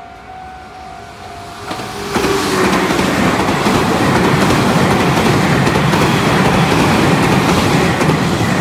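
A level crossing's warning bell rings steadily, then from about two seconds in a Meitetsu electric train passes close by, the loud noise of its wheels on the rails drowning out the bell.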